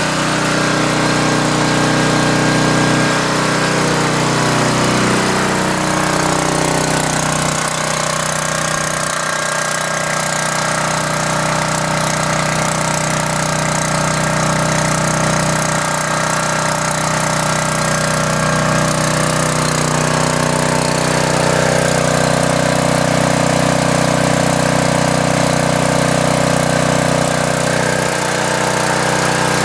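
Emergency generator's engine running steadily, supplying the house's power, with small shifts in its pitch along the way.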